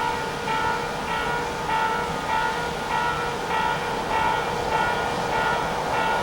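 Electronic train-approach warning bell at a railway station, ringing in a steady repeating pattern about once every 0.6 s, the signal that a train is about to pass through. A steady low rumble runs underneath.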